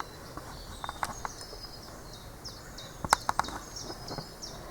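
A small bird calling over and over in short, high, thin notes, each sliding down in pitch. A few sharp clicks come about a second in and in a quick cluster around three seconds in.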